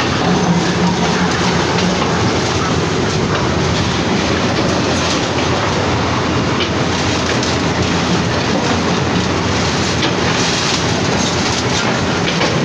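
Heavy machinery running with a continuous loud clattering din and a low hum.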